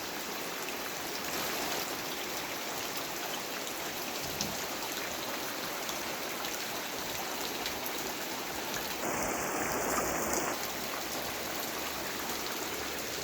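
Heavy rain falling, a steady hiss of drops, with a louder rush for a second or so about nine seconds in.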